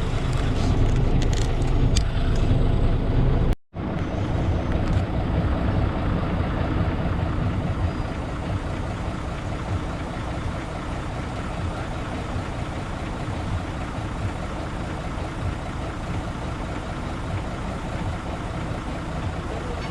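Heavy truck engine running with a steady low rumble. The sound cuts out for a moment about three and a half seconds in, then carries on a little quieter.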